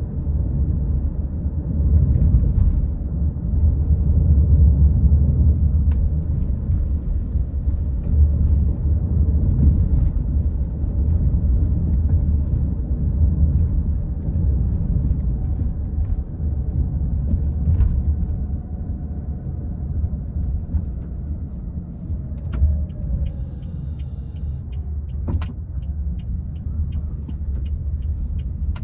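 A car driving along, a steady low rumble of road and engine. A few seconds before the end a regular quick ticking starts, about two or three ticks a second.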